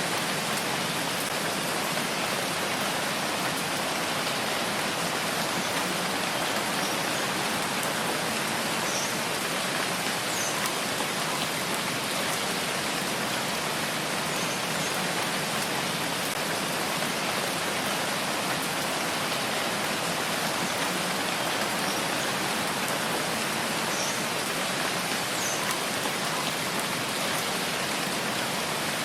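Steady rain falling, an even, unbroken hiss with a few faint high ticks scattered through it.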